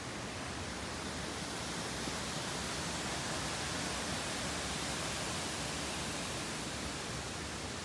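Steady road and running noise of a Subaru Sambar kei vehicle on the move, heard from inside the cabin as an even hiss that swells slightly in the middle.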